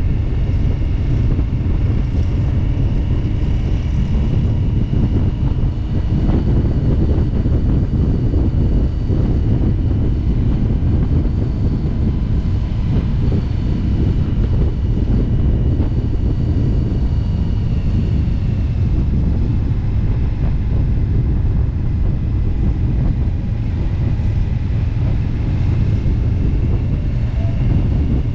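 Indian motorcycle V-twin engine running steadily at road speed, a dense low rumble mixed with wind rushing over the microphone.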